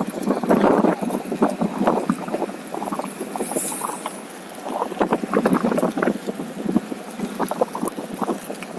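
OneWheel rolling along a trail: a busy, irregular crunching and rattling from the tyre on the ground and the board, with some wind on the microphone.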